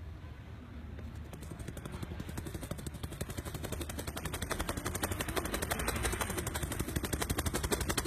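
A man's vocal imitation of an Apache attack helicopter: a fast, even chopping pulse like rotor blades, growing steadily louder as the helicopter seems to draw near.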